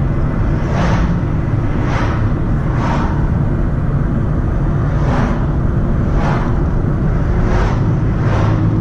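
Car driving on a wet road, heard from inside the cabin: a steady low engine and road rumble with a swish about every second.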